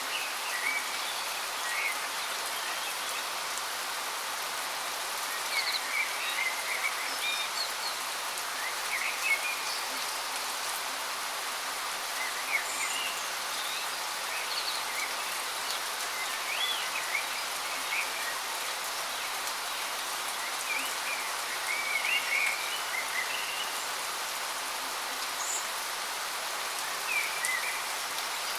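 Waterfall rushing steadily, with birds chirping on and off over it.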